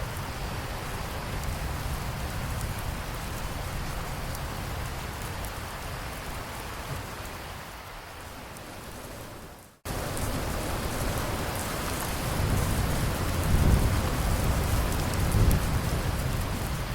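Steady heavy rain falling, which fades a little and then cuts out for an instant about ten seconds in before resuming. In the second half a low rumble of distant thunder swells, peaking twice.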